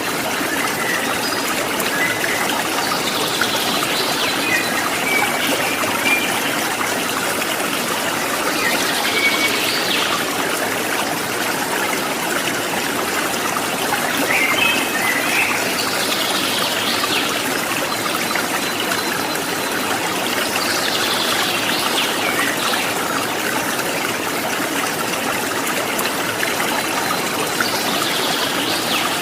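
Water trickling and splashing steadily, with short bird calls recurring about every six seconds.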